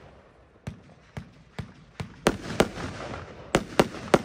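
Röder Jubelbox F2 firework battery firing: about eight sharp bangs of its shots bursting in the air, irregularly spaced, with the loudest ones coming in the second half.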